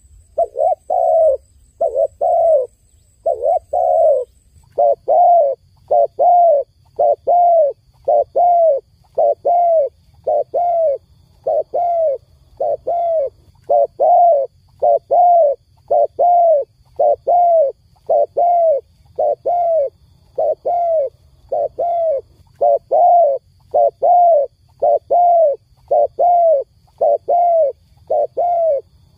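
A dove cooing over and over: short, slightly falling notes about two a second, with brief pauses between runs.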